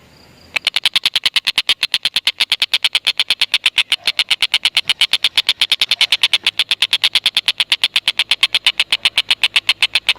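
Collared kingfisher (tengkek buto) giving its long chattering 'ngekek' call: a fast, unbroken run of sharp, high 'kek' notes, about eight a second, starting about half a second in.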